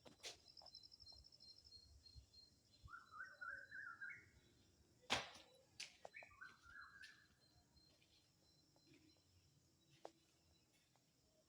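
Birds chirping faintly in short warbling phrases, with a rapid high trill near the start. A few sharp clicks come through as well, the loudest about five seconds in.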